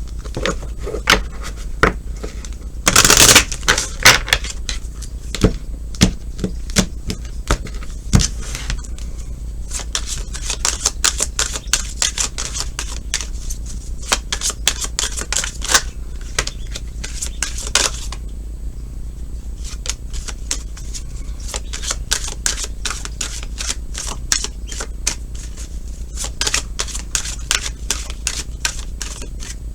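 A tarot deck being shuffled by hand: rapid crisp clicking and flapping of cards, with a louder burst about three seconds in and a short pause about two-thirds of the way through.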